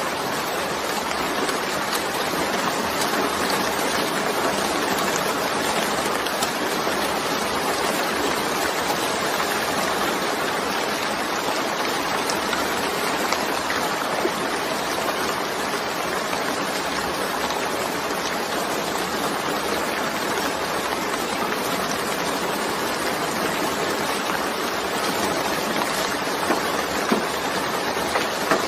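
Steady rain falling, an even dense hiss with now and then a faint single drop tick.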